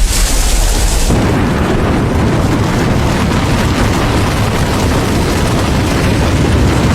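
A tidewater glacier calving: a huge mass of ice breaks from the glacier front with a sudden crashing burst, then a long, deep rumble as it collapses into the sea.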